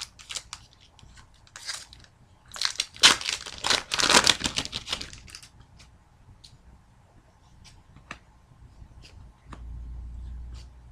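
A hockey card pack wrapper being torn open and crumpled, a dense crinkling that lasts about three seconds, followed by separate light clicks as the cards are handled.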